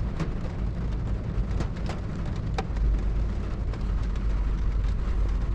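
Rain falling on a car's roof, heard from inside the car: a steady hiss with scattered sharper ticks of single drops. A low rumble grows stronger about three seconds in.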